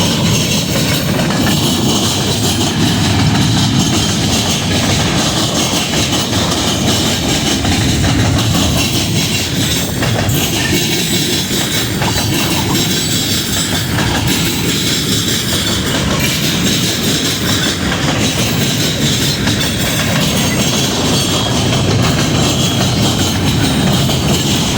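Train cars rolling past on the rails, a steady loud rumble of wheels on track with clickety-clack.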